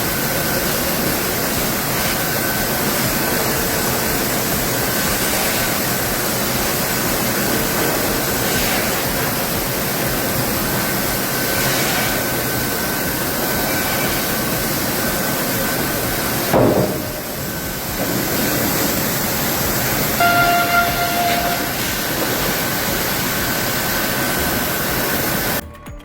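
Sawmill machinery running with a steady, loud rushing noise and a faint high whine. There is a sharp knock about two-thirds of the way in and a brief pitched tone a few seconds later.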